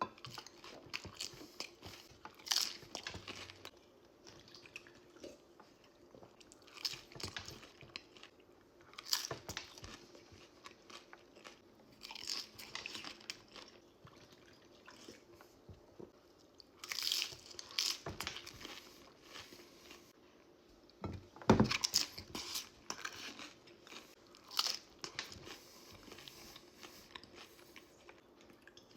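Close-up crunching and chewing of nacho tortilla chips: irregular crisp bites every second or two with quieter chewing between, the loudest crunch about two-thirds of the way through.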